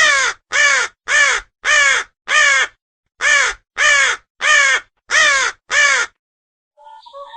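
A bird calling: ten short calls in two runs of five, about one every half second, each dropping in pitch at its end.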